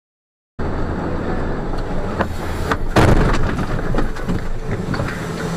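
Sound cuts in about half a second in: a vehicle's engine running steadily, with a loud crash impact about three seconds in and scattered knocks and rattles around it.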